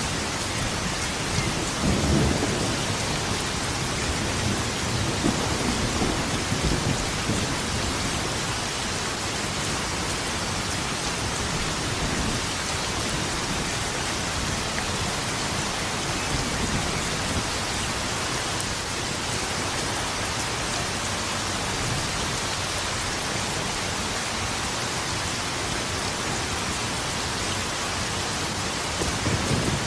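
Steady rain falling, with thunder rumbling through the first several seconds and rolling in again near the end.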